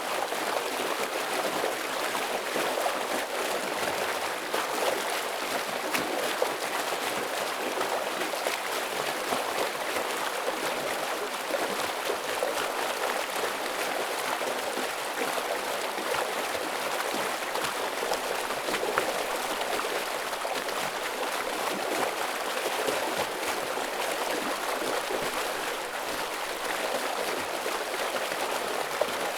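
Heavy stream water rushing steadily over rocks, a dense splashing roar with many small sharp splashes and little deep rumble.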